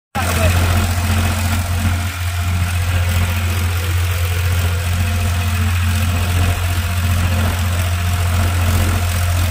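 Heavy diesel engine idling steadily, loud and close, with a deep even hum and no change in speed.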